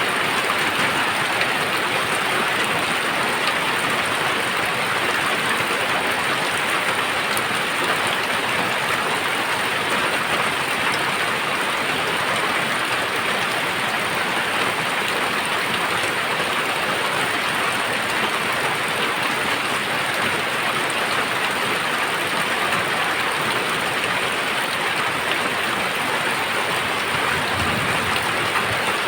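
Very heavy rain falling steadily, a dense even hiss of rain pouring down with no breaks.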